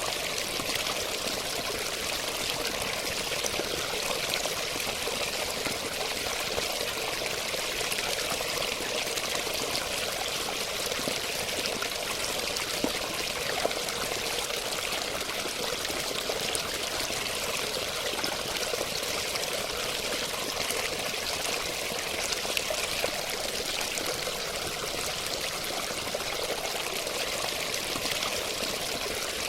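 Running water flowing steadily, an even, unbroken rush with little low rumble.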